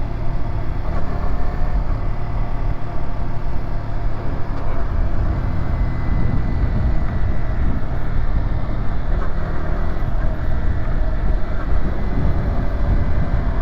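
Yamaha YZF-R125's 125 cc single-cylinder four-stroke engine running steadily while riding, under a heavy low rush of wind noise on the microphone.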